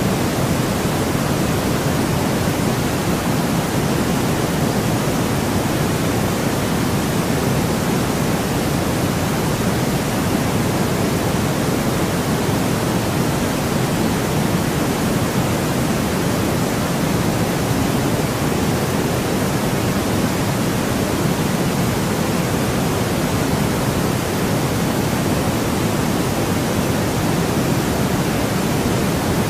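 Steady, unchanging white noise for sleep: an even hiss with its weight in the low-middle range, without breaks or changes.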